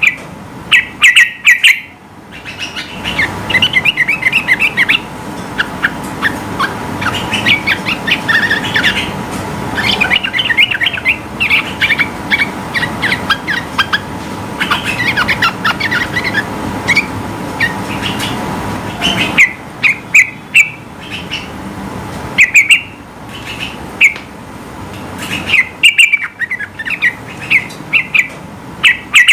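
Sooty-headed bulbul (trucukan) singing: rapid, chattering strings of quick high notes, dense through the first two-thirds. Near the end they give way to separate short sharp calls in small groups.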